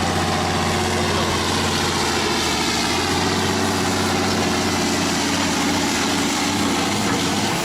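A tractor's engine running steadily at a constant speed, with a deep even hum.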